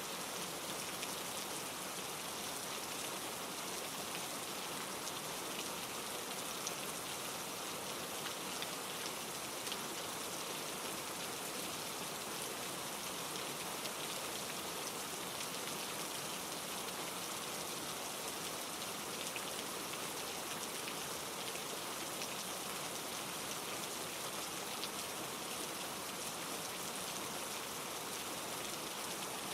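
Steady rain falling: a dense, even hiss of rain on surfaces, flecked with many small drop ticks.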